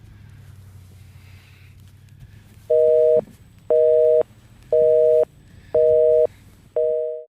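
Telephone busy signal: five loud two-pitch beeps, each about half a second on and half a second off, starting a little under three seconds in. The last beep is cut off abruptly. A faint low hum comes before them.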